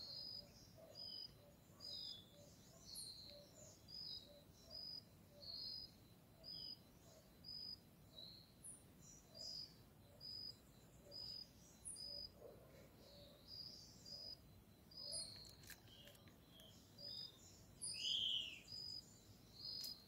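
Birds calling: a short, high chirp repeated over and over at a steady pace, other chirps in between, and a louder arched call near the end.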